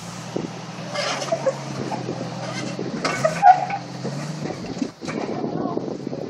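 An off-road vehicle's engine running steadily at low revs as it crawls an obstacle, rising slightly in pitch a little past halfway. Short squeaking and scraping sounds come over it about a second in and again around three seconds in.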